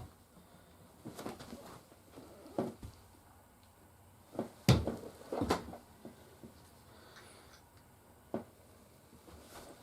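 A few light knocks and clatters of plastic toy figures being handled and set down, the loudest knock about halfway through.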